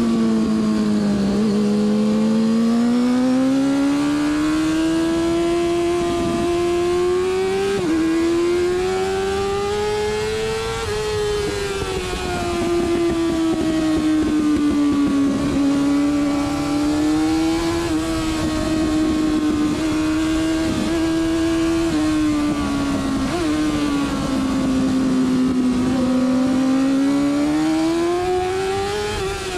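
Onboard sound of a carburettor-fed racing motorcycle's engine at race pace, its pitch repeatedly climbing under acceleration and dropping off for corners, with abrupt steps at the gear changes.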